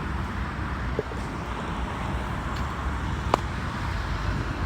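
Steady rumble of road traffic, with one sharp click a little over three seconds in.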